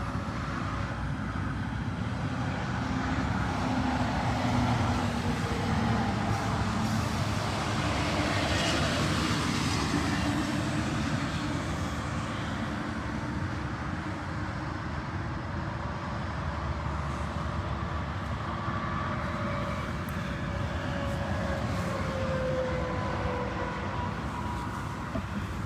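Interstate highway traffic passing: a steady rush of tyres and engines, with the engine tone of a passing vehicle falling slightly in pitch over the last few seconds.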